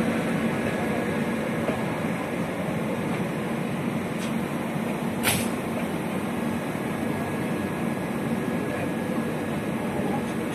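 Steady running rumble of a passenger train on the rails, heard from an open coach doorway, with a brief sharp high-pitched sound about five seconds in.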